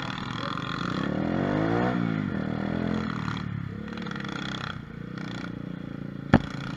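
Mini moto (pit bike) engine at high revs, its pitch climbing to a peak about two seconds in and then falling away, then running on lower; a single sharp knock near the end.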